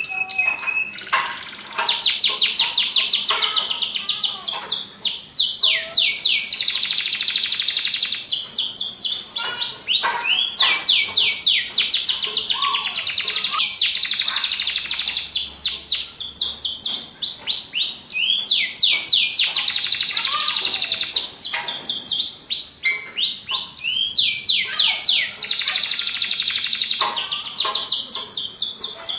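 Domestic canary singing vigorously: a long, loud song of rapid trills made of quick falling high notes, in phrases broken by short pauses.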